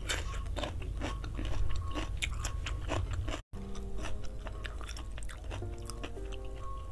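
Crunchy chewing of a freshly bitten raw cucumber, a quick run of wet crackles. About halfway through, the sound cuts out for a moment, then soft background music comes in with quieter chewing.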